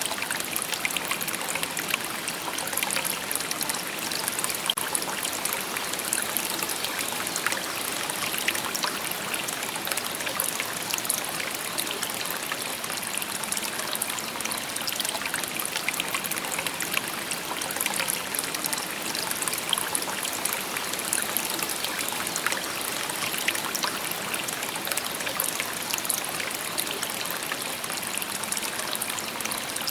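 A shallow stream babbling over stones: a steady rush of water with many small trickling splashes and gurgles throughout.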